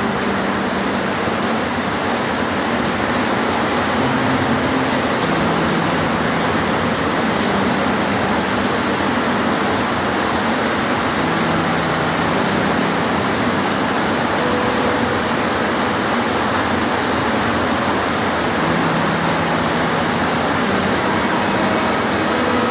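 Steady heavy rain, a dense even hiss, with faint low hums coming and going underneath.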